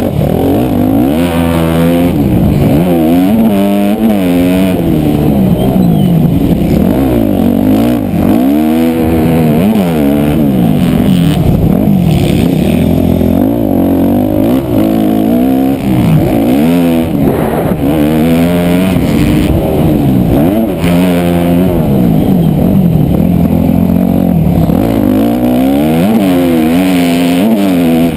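Dirt bike engine running hard on a motocross track, revving up and dropping again and again as the rider accelerates, shifts and backs off for jumps and corners.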